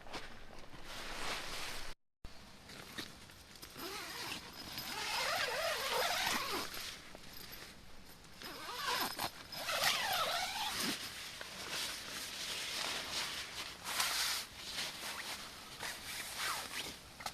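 Camping gear being handled: fabric rustling with zipper-like rasps, in irregular bursts that cut out briefly about two seconds in.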